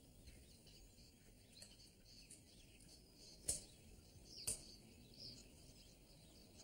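Near silence with faint high bird chirps, broken by two sharp clicks about a second apart near the middle.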